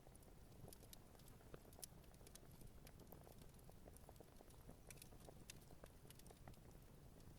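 Campfire burning gently, crackling faintly with many small, irregular pops and snaps over a low steady rumble.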